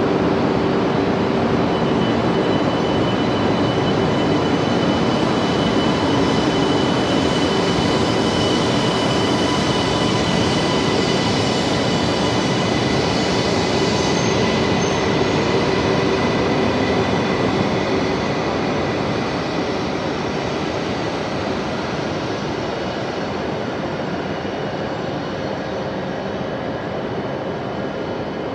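E2 series Shinkansen pulling out of an underground platform: running noise with a steady high whine, which falls away about 18 seconds in as the train clears the platform.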